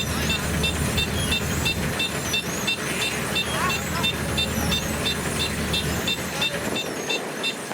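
Diesel farm-machine engine running steadily, with a regular high-pitched ticking about three times a second. The low engine note fades near the end.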